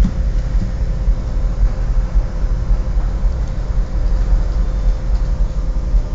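Steady low rumble of a squid-fishing boat's engines running, with a faint steady hum above it.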